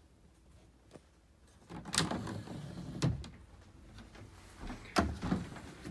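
Sliding wooden cabinet doors being slid along their runners and knocking against their stops, several times from about two seconds in.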